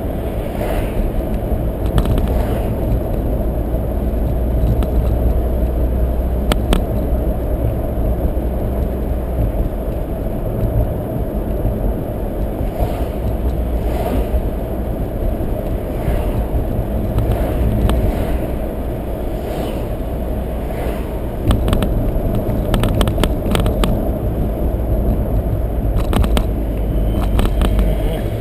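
Car cabin road noise while driving: a steady low rumble of tyres and engine, with scattered sharp clicks and crackles that bunch together in the last third.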